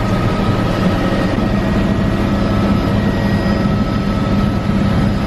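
Helicopter engine and rotor noise heard from inside the cabin in flight: a loud, steady drone with a constant hum and whine running through it.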